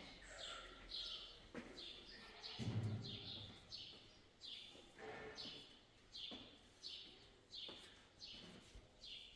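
A bird chirping over and over, short high chirps each falling in pitch, about two a second. A low knock sounds about three seconds in.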